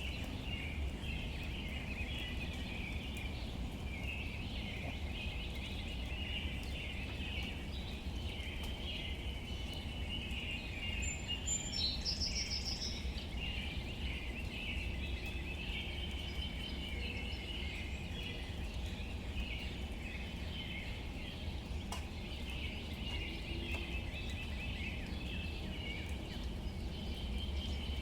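Outdoor ambience: a steady chorus of birds chirping, over a low rumble, with one brighter bird call standing out about twelve seconds in.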